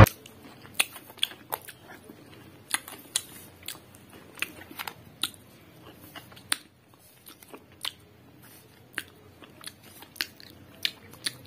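Close-up crunching and chewing of the last crumbs of Lay's potato chips: sharp, irregular little crunches a second or so apart.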